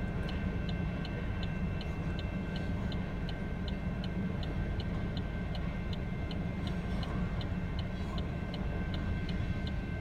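A railroad crossing bell ringing steadily, about three strikes a second, over the low rumble of a passing coal train.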